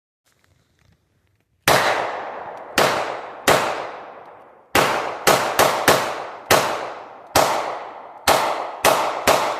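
Rapid series of about a dozen gunshots, some under half a second apart, each echoing and fading out over about a second.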